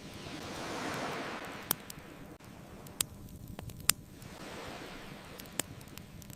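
Ocean waves washing in, a louder swell about a second in and a softer one past the middle, over the low rumble of a wood fire. The fire gives sharp crackles and pops, a few of them standing out as the loudest sounds.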